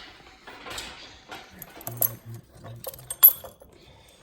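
Metal clicking and rattling from equipment being handled, with a sharp click a little over three seconds in.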